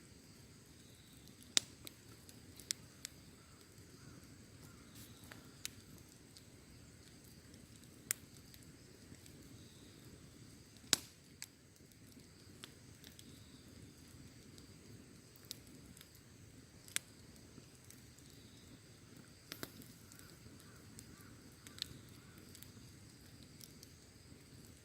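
Campfire burning: sharp pops and cracks from the wood, about a dozen scattered irregularly, over a low steady rustle, with a steady high insect chirring throughout.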